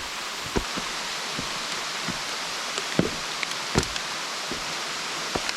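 Steady rushing of a waterfall, with a few soft low thumps scattered through it, the loudest about three and nearly four seconds in.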